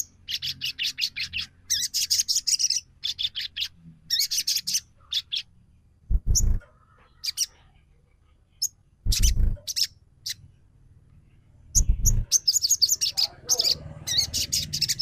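Sogon trotol bird calling in bursts of rapid, sharp chirps about a second long, with pauses between; a lure call meant to set off a sogon that won't sing. A few dull low thumps come in the gaps.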